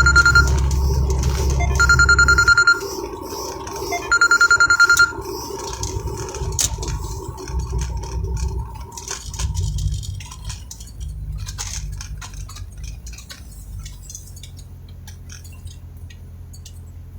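Phone emergency-alert tone sounding three times, each a pulsed, high beep about a second long, announcing a CodeRED severe thunderstorm warning, over the low rumble inside a moving vehicle.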